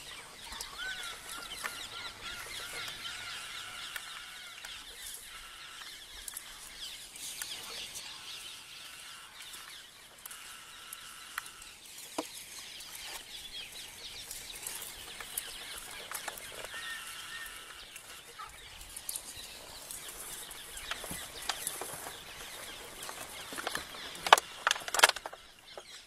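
Forest birds calling and chirping, among them fowl-like calls, with a held wavering call in the first few seconds. A cluster of sharp clicks comes near the end.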